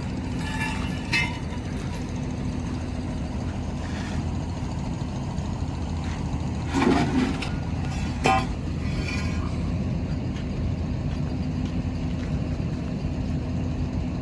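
Heavy diesel engine of construction machinery running steadily, with a couple of short sharp knocks about seven and eight seconds in.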